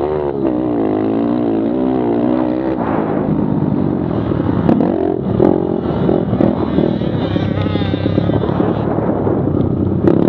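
Small four-stroke pit bike engines racing, their pitch rising and falling over and over as the riders rev up and back off. After about three seconds it turns rougher and noisier.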